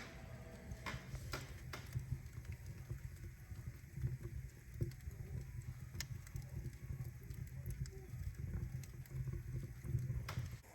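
Fire burning in a fireplace's cast-iron firebox, a low steady rumble with scattered crackles and pops.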